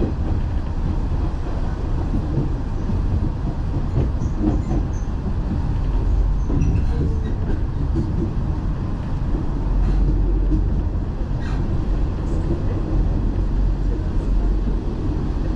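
Nishitetsu Dazaifu Line electric train running, heard from inside the carriage: a steady low rumble of wheels and running gear, with a few faint clicks scattered through it.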